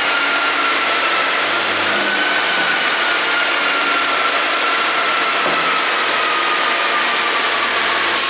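BMW 430i convertible driving at a steady speed: a continuous rush of road and wind noise with a thin whine that slowly falls in pitch, and no exhaust pops.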